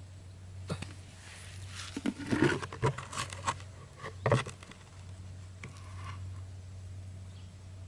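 Scattered light taps, clicks and scraping, bunched together in the middle with one sharp click just after, over a steady low hum.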